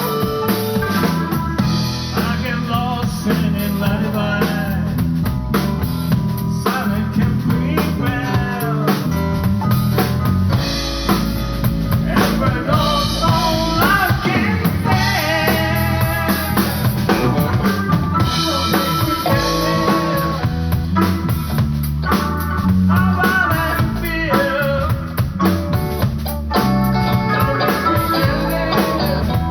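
A live blues band playing: a drum kit keeps the beat with rimshots over a full bass line, while a lead line with notes that bend up and down in pitch runs over the top, most likely an electric guitar solo.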